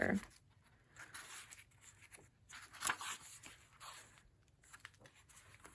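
Faint rustling and soft swishes of paper as pages of an old book are turned, with a few light clicks of handling.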